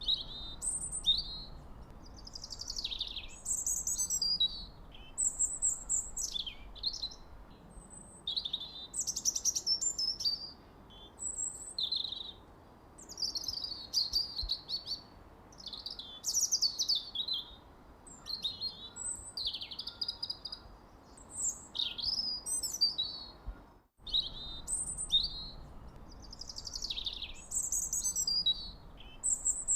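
Birds chirping and singing without a break: quick high notes, trills and downward-sweeping phrases tumbling one after another. A faint hiss sits underneath, and the sound drops out for an instant about 24 seconds in.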